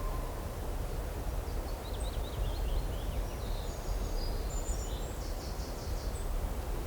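A small songbird sings a quick, high, twittering phrase that ends in a short rapid trill, over a steady low rushing and rumbling outdoor ambience.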